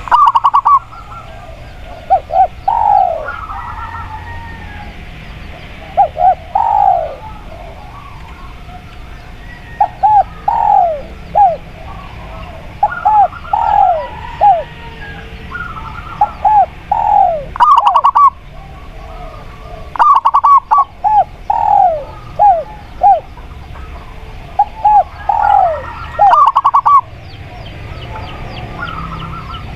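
Spotted dove and zebra dove cooing, repeating short phrases of curved coo notes every few seconds. Now and then a quick rattling run of notes stands out, a few times in all.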